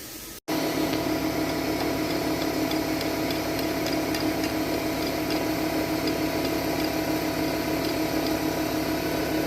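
Old Rottler cylinder-head surfacing machine running, a loud, steady mechanical whir with a gear-like hum. It cuts in suddenly about half a second in, after a brief silent gap.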